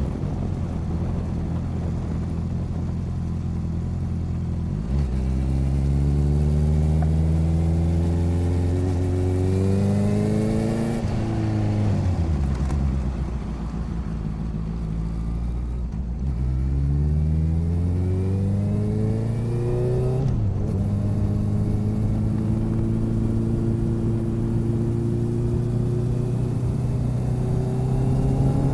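Motorcycle engine under way, picked up close at the side of the bike: its pitch climbs with a gear change about five seconds in, drops sharply as it slows around the middle, climbs again with another shift about two-thirds of the way through, then holds nearly steady while cruising.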